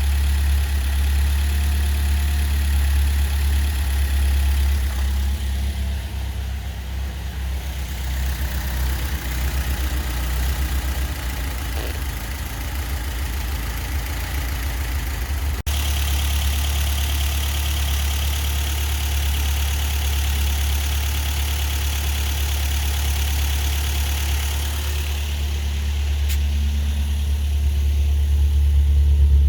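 1963 Datsun Fairlady 1500's four-cylinder engine idling steadily, running a little louder near the end.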